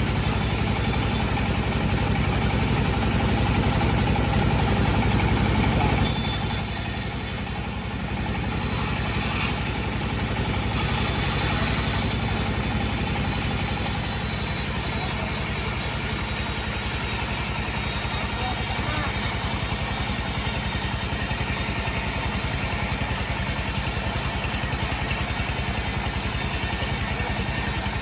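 Sawmill bandsaw machine running with a steady engine-like drone. The sound drops and changes about six seconds in, then runs on evenly.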